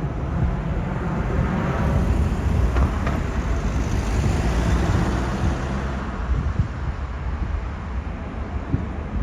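Jet airliner engine noise swelling to a peak about four seconds in and then easing off, with wind rumbling on the microphone.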